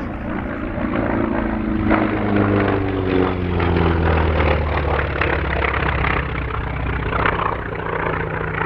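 Grumman FM-2 Wildcat's nine-cylinder Wright R-1820 Cyclone radial engine running hard as the fighter flies past. Its pitch drops between about two and five seconds in as it passes.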